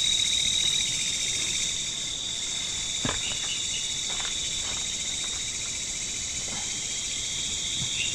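Night insect chorus: a steady, shrill high trill with a fast pulsing layer beneath it and a hiss above, with a few faint clicks in the middle.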